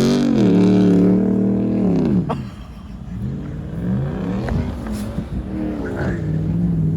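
Car engine revving hard in the snow: it holds a high rev, falls off about two seconds in, then runs lower and unsteady before climbing again near the end.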